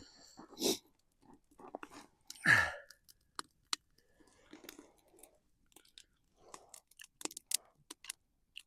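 A person chewing a hot roasted mushroom close to the microphone, with scattered small wet clicks and crunches. About two and a half seconds in there is a short vocal sound that falls in pitch.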